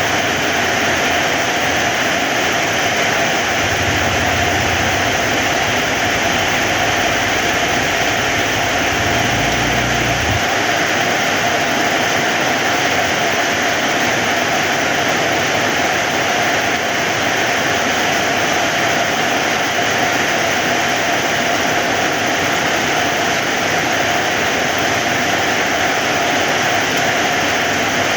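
Heavy rain falling steadily as a dense, even hiss, with a couple of brief low rumbles in the first ten seconds.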